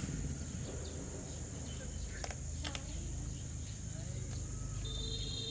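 Insects chirring in one steady high tone over a low outdoor rumble, with two sharp clicks a little past the middle.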